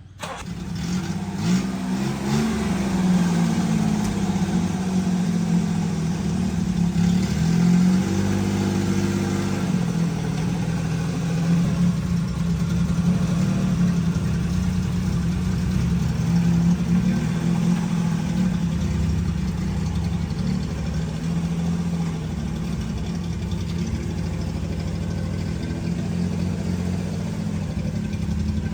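Daewoo small truck's engine starting and running after a long period of disuse, its speed rising and falling in the first few seconds and again about eight seconds in, then settling to a steady run.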